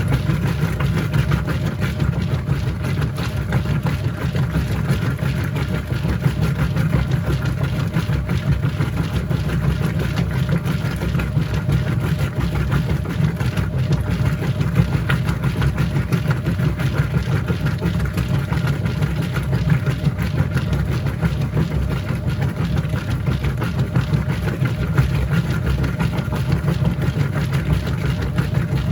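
Whirlpool top-load washing machine running mid-cycle: a steady, even low motor hum with no pauses or changes.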